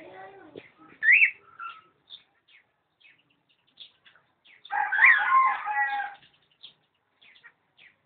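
Birds calling, cockatiels among them: scattered short chirps, a loud rising whistle about a second in, and a longer, louder call of about a second and a half near the middle.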